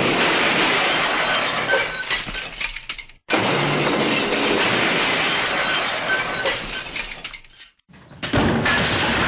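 A cartoon sound effect of a long, loud, noisy clatter with a crash-like quality, played twice. The second playing fades out near the end.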